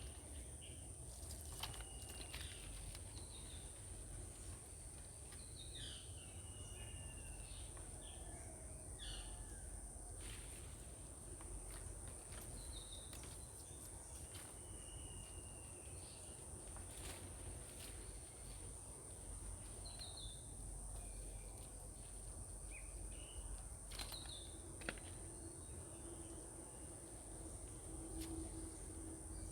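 Outdoor ambience: scattered short bird chirps over a steady high-pitched insect drone and a low rumble, with one sharp click near the end.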